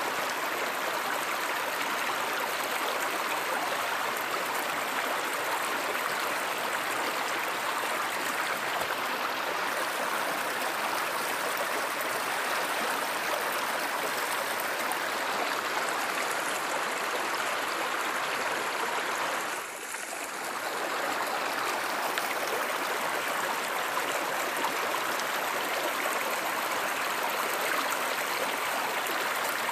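Stream water flowing steadily in an even rushing wash, dipping briefly about two-thirds of the way through.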